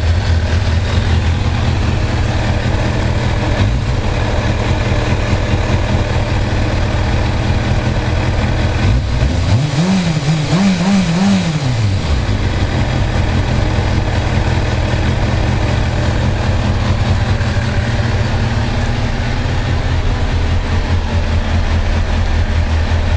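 Kawasaki ZX-6R inline-four engine idling steadily through its exhaust, revved up once about nine seconds in with three quick blips of the throttle before dropping back to idle.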